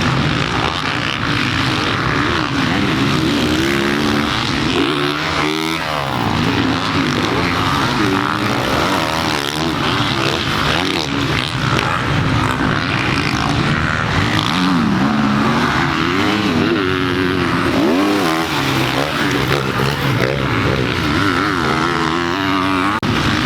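Dirt bike engine revving on a motocross track, its pitch rising and falling over and over as the throttle opens and closes.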